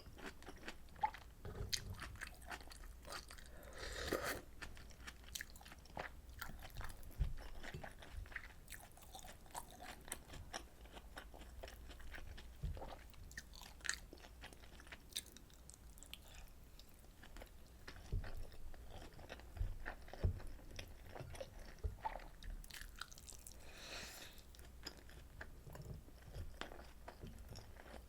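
Close-miked chewing and eating sounds: a steady run of short, wet mouth clicks and smacks, with louder, busier stretches about four seconds in and near the end.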